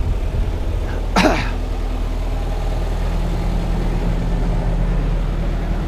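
Yanmar crawler excavator's diesel engine idling steadily, with a short vocal sound, like a grunt or throat-clear, about a second in.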